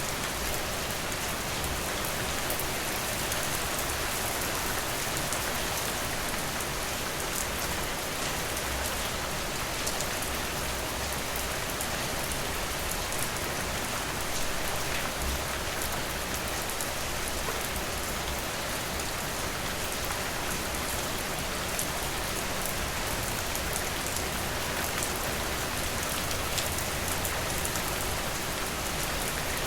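Steady rain falling, an even hiss dotted with many small drop ticks, with no thunder.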